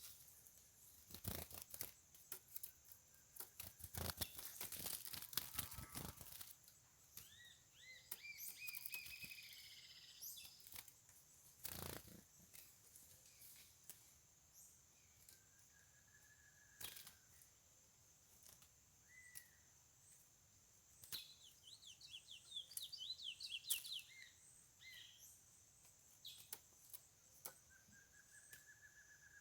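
Chestnut-bellied seed finch (curió) singing faint whistled phrases: slurred notes rising and falling, a quick run of notes about two-thirds of the way in, and single clear whistles. Scattered sharp clicks and knocks, the loudest in the first few seconds.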